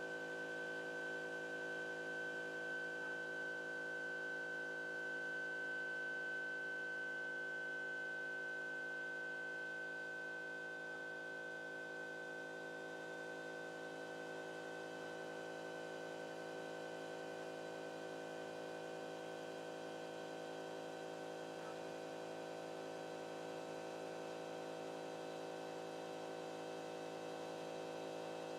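CNC drawing machine's stepper motors giving a steady electrical whine and hum made of several fixed tones; the highest tone fades out about a third of the way in.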